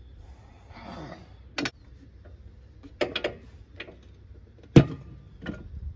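Metal tire irons knocking and clinking against a motorcycle wheel rim while a tire bead is levered on by hand: a handful of sharp knocks, the loudest a little before the end, over a low rumble.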